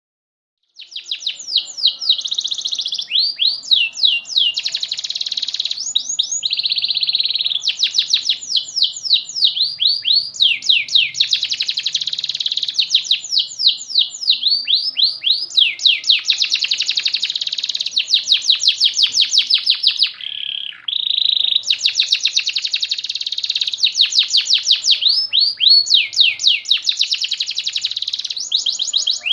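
Domestic canary singing a long, nearly unbroken song of fast repeated rising notes and rolling trills. The song starts about a second in and falters briefly about two-thirds of the way through.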